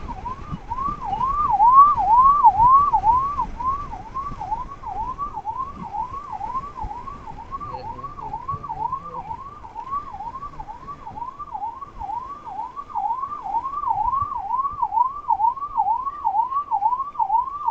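Ambulance siren wailing in a fast, even up-and-down sweep, about two cycles a second. It is loudest a couple of seconds in.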